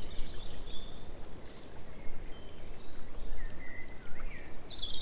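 Wind buffeting the microphone with a steady low rumble, and songbirds singing short chirps and warbling phrases over it.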